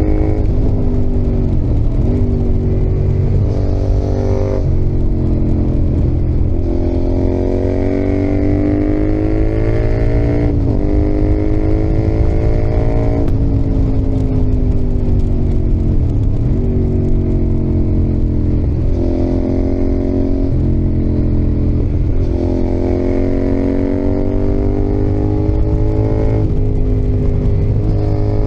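Yamaha XSR700's CP2 parallel-twin engine, heard from the saddle, riding. The revs climb steadily under throttle and drop off sharply again and again as it shifts gear or rolls off for corners.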